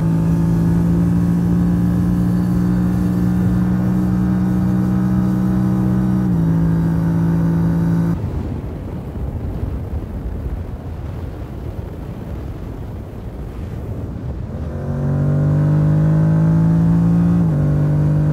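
Yamaha R7's parallel-twin engine running under steady throttle, with an upshift about six seconds in. The engine note then falls away to wind and road rush while the bike coasts. It pulls again with rising pitch, and there is another upshift near the end.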